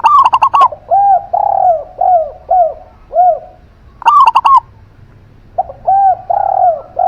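Two doves calling in turn. A zebra dove (perkutut) gives short, loud bursts of quick, high cooing notes at the start and again about four seconds in. Between the bursts a spotted dove (derkuku) coos in a slower series of lower, softer notes.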